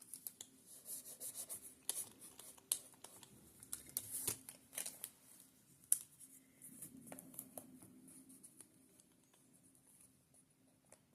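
Thin tissue paper rustling and crinkling in quick scratchy bursts as it is handled and pressed down with acrylic medium, busiest for about eight seconds and then fainter.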